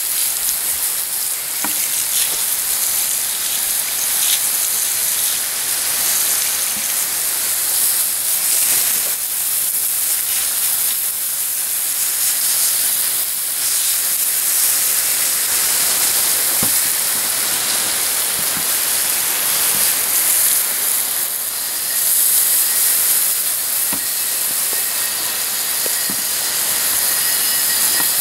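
Steady hiss of a water spray rinsing engine degreaser and loosened grime off an old Buffalo Forge post drill press.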